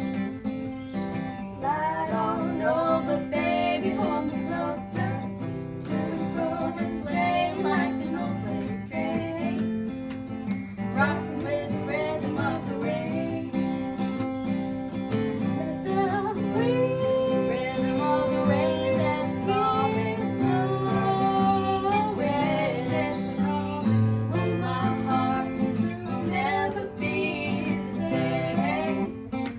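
Acoustic guitar playing chords under a voice singing a melody: an acoustic cover song.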